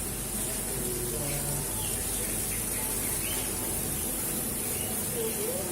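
Small birds chirping and calling over a steady hiss of splashing, running water.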